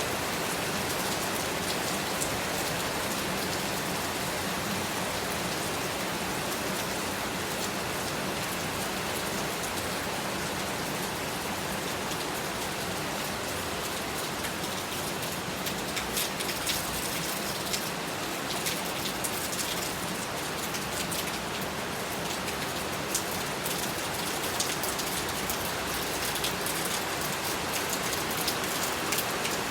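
Heavy rain falling steadily, a dense even hiss with sharper individual drop hits on a surface, more frequent in the second half.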